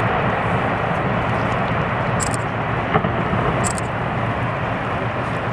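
Steady rushing noise with a low hum beneath it, and one brief tick about three seconds in.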